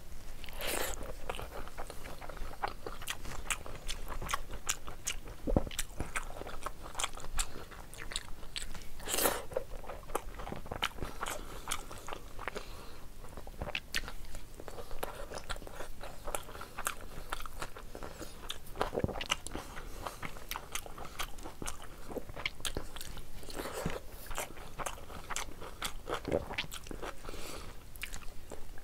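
Chewing and wet mouth sounds of someone eating rice and curry by hand, with frequent small clicks, smacks and crunchy bites.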